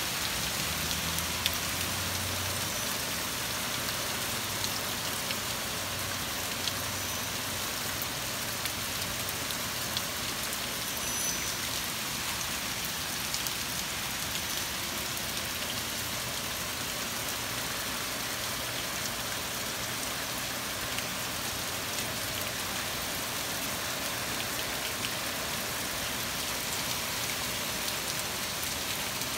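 Heavy rain falling steadily: a dense, even hiss of rain with scattered drop ticks. A low hum fades out over the first several seconds.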